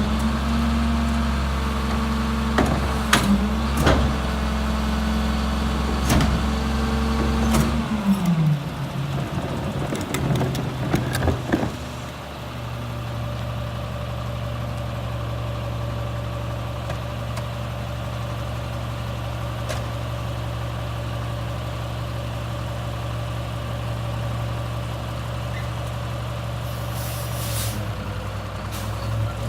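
Garbage truck's diesel engine running steadily at raised revs, with scattered metallic knocks and clanks. About eight seconds in, the revs drop to a low steady idle, and there are a few more knocks. A short hiss of air comes near the end.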